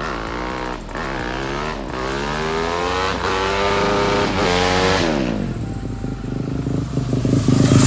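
Dirt bike engine accelerating hard through the gears, its pitch climbing and dropping back at each shift about once a second, then falling away after about five seconds. A lower engine rumble grows louder near the end.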